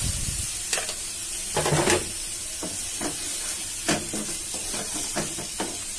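Beef and spice masala sizzling in a pot as water is poured in at the start and a metal spoon stirs and scrapes it. Scattered knocks of the spoon against the pot run through the steady sizzle.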